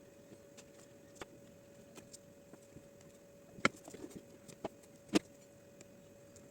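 Scattered light clicks and taps over a faint steady hum, with two louder sharp knocks a little past halfway, about a second and a half apart.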